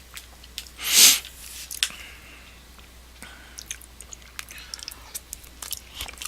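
Mouth sounds of a person eating soft-serve Blizzard ice cream: small wet chewing and lip-smacking clicks scattered throughout. About a second in there is one short, loud breathy noise.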